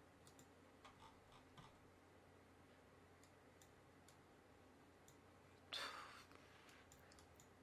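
Near silence with scattered faint clicks from a computer keyboard and mouse, and a brief soft rush of noise about six seconds in.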